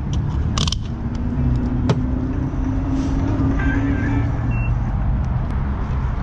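Car running with a steady low rumble, with a faint steady tone over it for a few seconds and a single sharp click about two seconds in.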